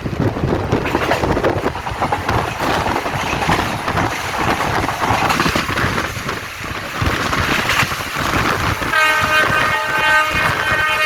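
Express train running through a station at full speed, its wheels clattering over the rails. About nine seconds in, the locomotive's horn starts, several tones sounding together, and is held.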